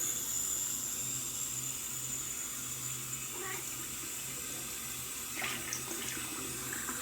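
Water tap running steadily into a sink, with a cat meowing briefly twice, once about three and a half seconds in and again about five and a half seconds in.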